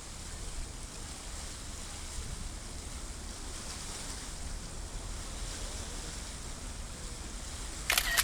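Steady harbourside ambience: a low rumble with wind buffeting the microphone over a wash of water and distant traffic. Near the end comes a brief sharp high-pitched squeak.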